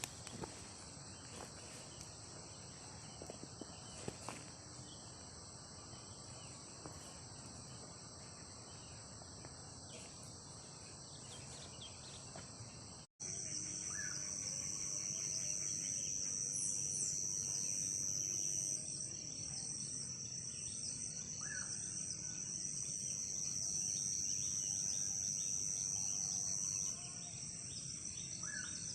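Insect chorus of crickets trilling steadily and high-pitched. About halfway through it cuts off abruptly and resumes louder with a fine pulsing, with a few short chirps over it.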